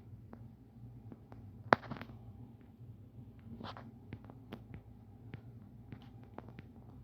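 Irregular small clicks and taps, with one much sharper, louder click a little under two seconds in, over a steady low hum.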